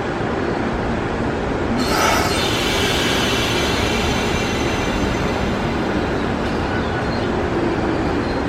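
Shinano Railway 115-series electric train at the platform with a steady low rumble. About two seconds in comes a sudden hiss and a cluster of high squealing tones, which fade over the next few seconds.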